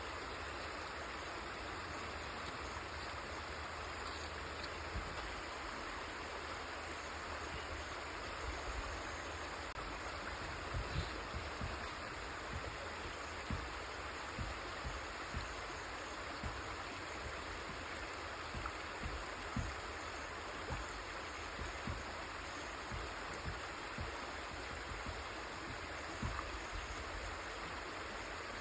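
River water rushing and burbling steadily over its bed. From about a third of the way in, brief low thumps come every second or so.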